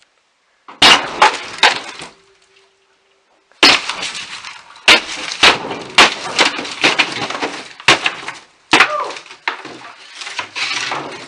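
An interior wall being knocked down: a quick run of heavy blows and cracks, then a longer stretch of repeated blows with chunks of wall crumbling and crashing down between them.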